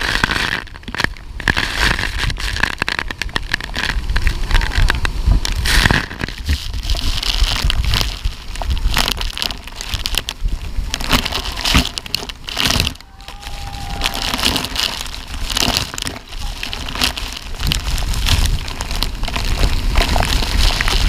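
Loud, noisy rush of water and spray from the waterfall, with many crackles and brief dropouts as water beats on the microphone.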